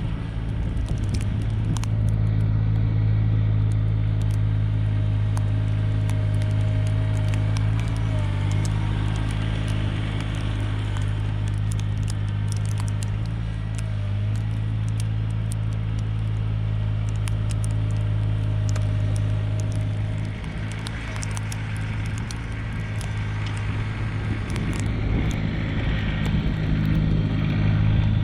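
Mahindra eMax 20S HST compact tractor's diesel engine running steadily while working snow, with brief wavers in pitch a couple of times and a dip then rise in level near the end; scattered faint clicks and crackle over it.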